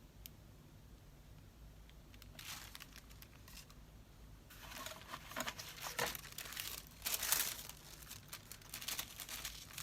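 Paper rustling and crinkling as sheets are handled: quiet at first, with a short rustle about two and a half seconds in, then steady irregular rustling from about halfway on.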